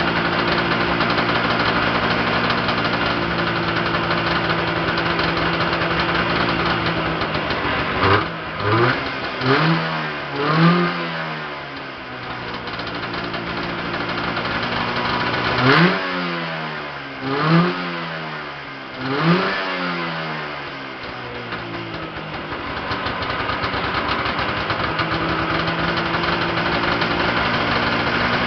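Freshly rebuilt Yamaha Enticer 340 two-stroke twin snowmobile engine idling steadily, then revved in quick throttle blips: four about a third of the way in and three more past the middle, each rising and falling back. It then settles back to idle.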